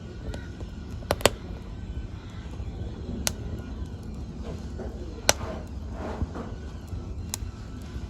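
Fire in a fireplace crackling: a steady low rumble of flames with sharp pops, the loudest a double pop just after a second in and a few more spaced one to two seconds apart.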